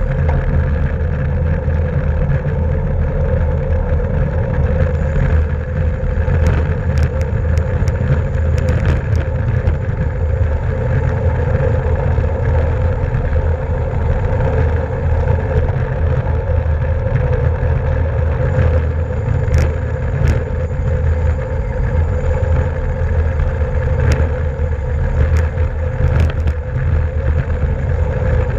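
Steady, loud rush of wind and road noise on a racing bicycle's onboard camera at speed, with a few sharp clicks scattered through it.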